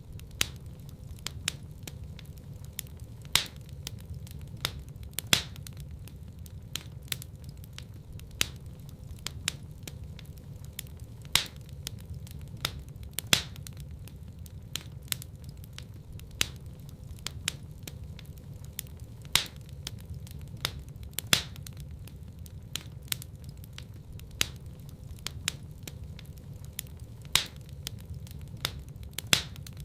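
Wood fire burning in a fireplace: a steady low rumble of flames with frequent sharp crackles and pops at irregular intervals, a handful of them much louder than the rest.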